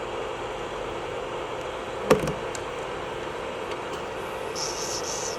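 Electric nail drill running steadily with a constant hum, with one sharp tap about two seconds in. Near the end come short, repeated high hissing spurts.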